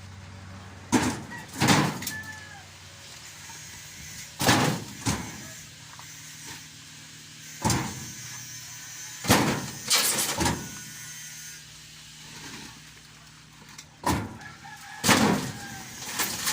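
Heavy bangs and thuds every one to three seconds, several in quick pairs, over the steady low hum of an idling truck engine.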